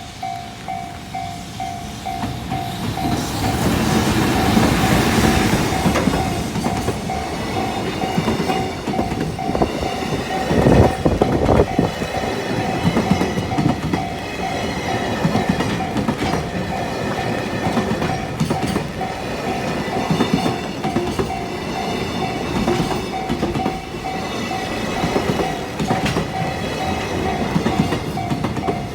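Freight train of an EF210 electric locomotive and Koki container flatcars passing a level crossing, wheels clattering and rumbling over the rails. The crossing's warning bell rings in a steady repeating pattern throughout.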